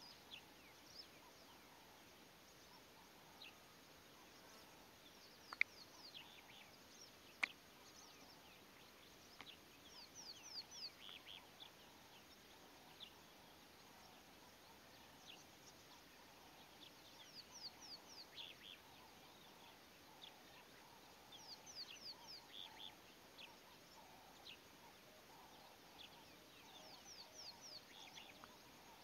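Faint outdoor ambience with small wild birds chirping in the distance: clusters of short, high, quickly falling notes that come and go. Two sharp clicks stand out about five and a half and seven and a half seconds in.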